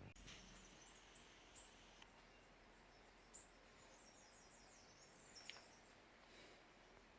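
Near silence, with faint high bird chirps now and then.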